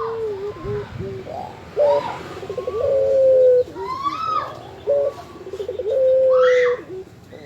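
Puter dove (Barbary dove) cooing in repeated phrases, each a short note, a quick rolling trill and then a long level coo, about every three seconds. Fainter, higher arching calls sound between them.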